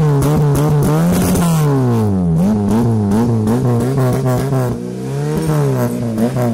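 Tuned Fiat 147's four-cylinder engine revved at high rpm, its pitch wavering quickly up and down under the throttle. The revs drop about two seconds in, climb again, and fall away near the end.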